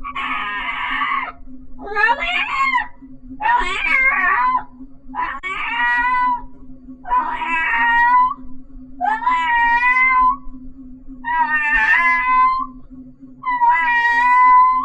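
A person imitating a cat: a hiss-like rasp at first, then a string of about seven drawn-out, wavering meows.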